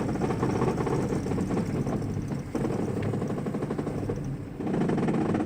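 A 1987 Toyota pickup's 22R-TEC four-cylinder engine running as the gas pedal is pressed very slowly, then cutting out right at the end as it stalls. The owner suspects he bumped the throttle position sensor.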